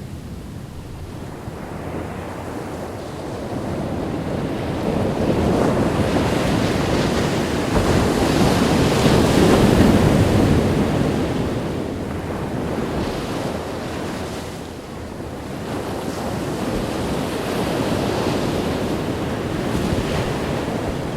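Ocean waves breaking on a beach, a steady wash of surf that swells to a loud crash near the middle and ebbs away, with a smaller swell near the end. Wind buffets the microphone.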